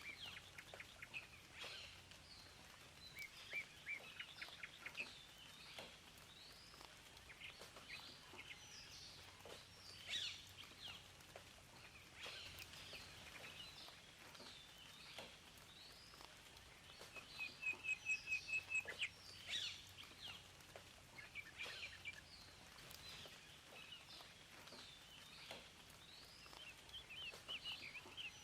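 Several wild songbirds chirping and singing over a faint steady hiss. About two-thirds of the way through, one bird gives a quick run of about ten even, repeated notes, the loudest sound.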